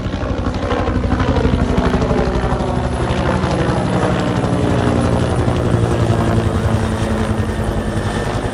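UH-1 helicopter flying low overhead: loud, fast rotor-blade thumping over engine and turbine noise, its pitch falling slowly as it passes.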